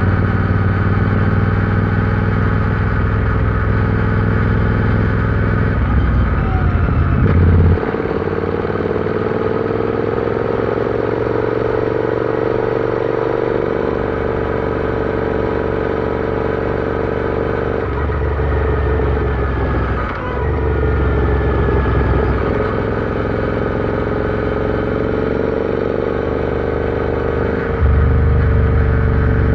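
Royal Enfield Interceptor 650's 648 cc parallel-twin engine running while riding, its note holding fairly steady with throttle changes. The level drops about eight seconds in, dips briefly around twenty seconds, and rises again near the end.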